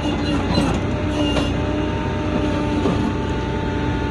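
Tow truck running steadily with a low hum, with a few short metallic clanks in the first second and a half as the car is being readied for lifting.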